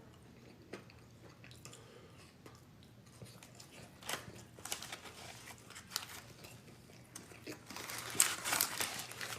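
Chewing and crunching of food close to the microphone, in irregular crackly bites that grow louder and thicker near the end.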